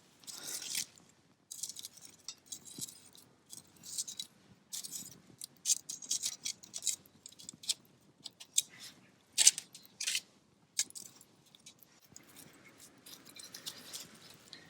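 Irregular short scrapes, clinks and rustles of hands-on camp cooking, with one sharper knock about nine and a half seconds in.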